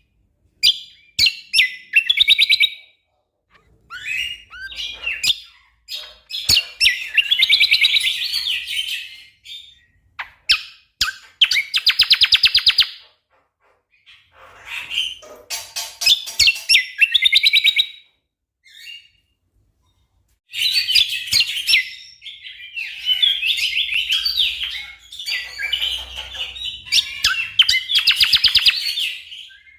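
Cucak kombo songbird singing in bursts of rapid, tightly packed notes and trills, with short pauses between phrases.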